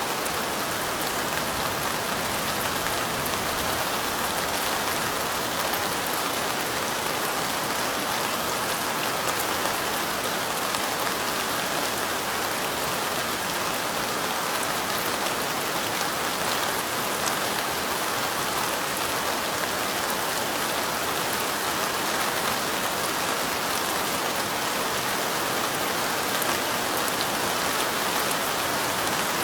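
Light rain falling steadily, an even hiss of pattering drops with faint scattered ticks of individual drops.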